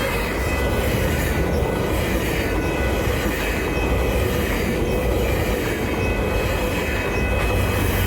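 GO Transit commuter train rolling past over the level crossing: a steady rumble of wheels on the rails with a thin, steady high squeal.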